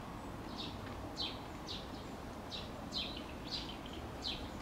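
A songbird calling over and over: short, high chirps that drop in pitch, about two a second.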